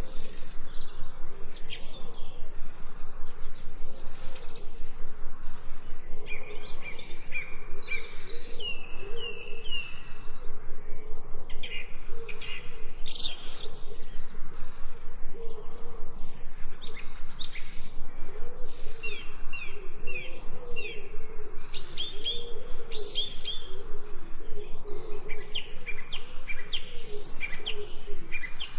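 Forest birds chirping and singing in many short quick phrases, over a regular pulsing high chirr like insects and a low wavering call.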